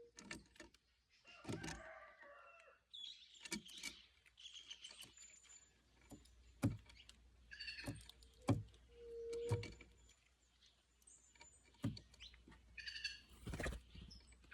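Plush-crested jays calling in a loose, scattered series of chatters and whistles, mixed with several sharp clicks.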